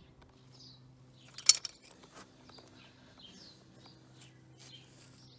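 Small birds chirping here and there over a faint steady low hum, with one short sharp noise about a second and a half in.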